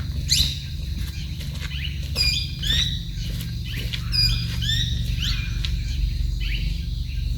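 Forest birds calling in short, sweeping chirps, several in quick pairs, over a steady low rumble on the microphone and a faint steady insect whine.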